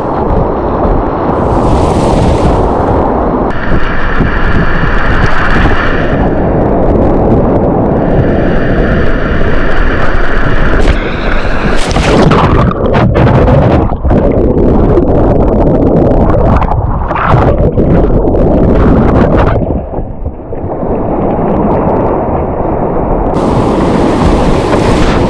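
Whitewater rapids rushing and splashing close to the microphone, a loud, dense churning of water with heavy buffeting on the mic, easing briefly about twenty seconds in.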